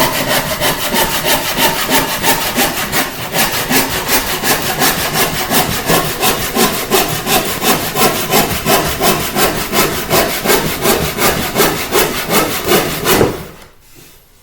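Hand saw cutting a piece of flooring with quick, even back-and-forth strokes, stopping about a second before the end.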